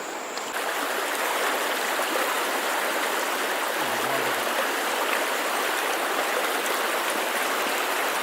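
Stream water flowing: a steady rushing that comes in abruptly about half a second in.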